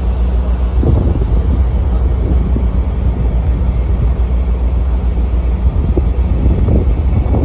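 Motorboat engine running steadily under way, a loud low drone, with wind buffeting the microphone.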